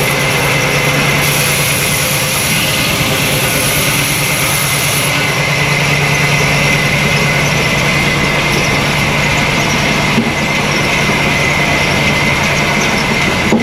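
Sawmill saw machinery running steadily, a loud constant hum with a high whine over it.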